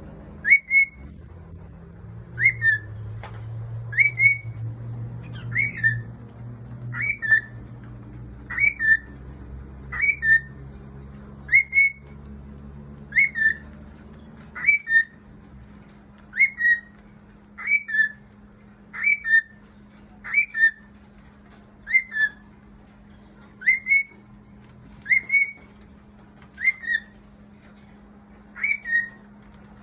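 Cockatiel repeatedly calling: a short, loud two-note whistle, a quick rising note then a slightly lower one, repeated about every one and a half seconds, some twenty times, over a faint steady hum.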